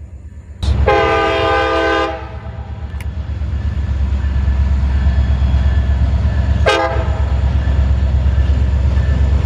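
Diesel locomotive horn sounding a long blast of about a second and a half, then a short blast near the end. Under it the deep rumble of the train's engine and cars builds up and then holds steady.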